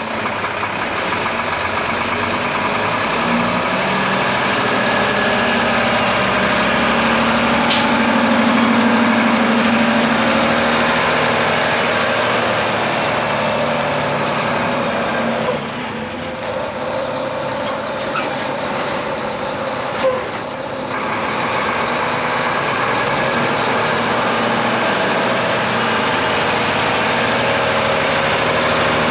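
Diesel engine of a 2012 Volvo VNM42T day cab tractor running steadily, with a sharp click about eight seconds in.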